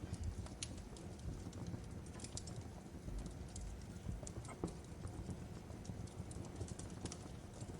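Log fire crackling: a steady low rumble of the flames with irregular sharp pops and snaps.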